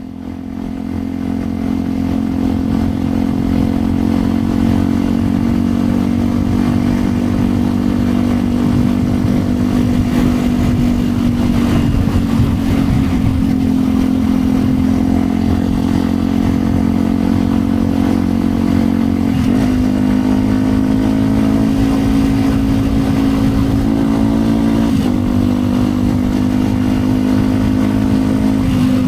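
Yamaha WR125X single-cylinder four-stroke engine running through an aftermarket Yoshimura exhaust while the bike is ridden. The engine note holds steady and slowly rises in pitch, with two brief breaks in the note, the first about two-thirds of the way through.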